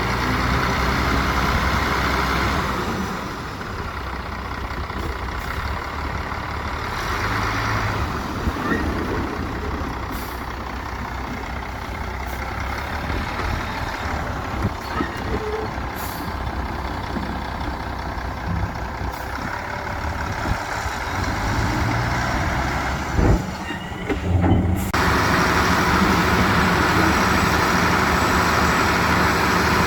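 Diesel engines of heavy earthmoving machinery running, with a few short clanks, and an abrupt change in the sound about 25 seconds in.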